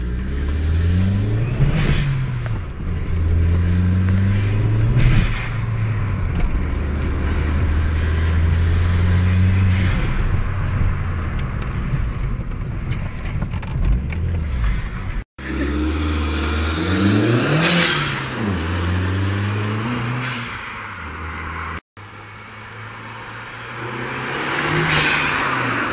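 Volkswagen Golf GTI's turbocharged engine revved several times. Each rev rises and falls away with a hissing whoosh from the turbo dump valve as the throttle shuts. The sound breaks off abruptly twice.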